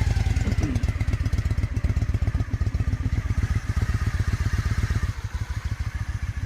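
2002 Honda Shadow ACE 750's V-twin engine idling steadily through its 2-into-1 exhaust, warming up shortly after a cold start; it idles smoothly for a cold engine. The idle gets slightly quieter about five seconds in.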